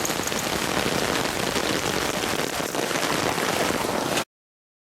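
Heavy rain falling steadily, a dense even hiss, that cuts off abruptly about four seconds in.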